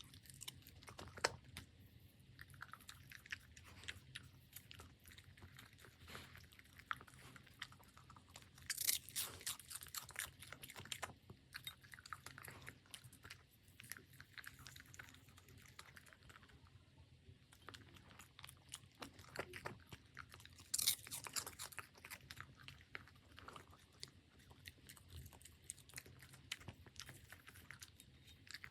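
A puppy eating, chewing its food in irregular crunches and clicks, with two louder spells of quick crunching about a third of the way in and about three-quarters of the way through.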